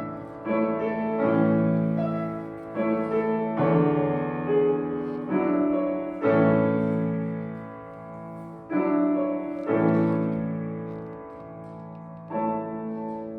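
Piano playing a slow piece in chords, each chord struck and left to ring and fade before the next.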